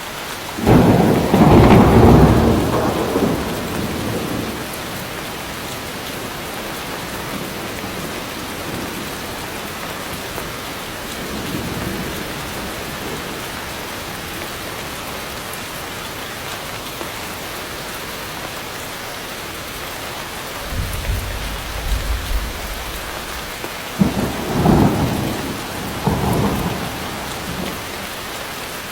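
Heavy rain falling steadily in a thunderstorm. A loud thunderclap about a second in rolls away over a few seconds, a faint rumble follows near the middle, and near the end a low rumble leads into two sharp cracks of thunder.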